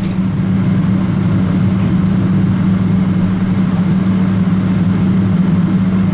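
Boeing 777-200ER jet engines running at idle, heard from inside the cabin as a steady, unchanging drone with a low hum.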